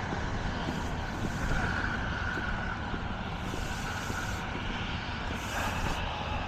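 Steady low rumble of idling vehicle engines, with a faint steady whine about a second and a half in that fades a few seconds later.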